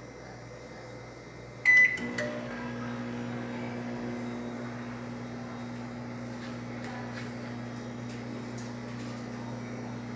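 Electrolux ME41X microwave oven: a short high beep and a click just under two seconds in, then the oven starts and runs with a steady hum.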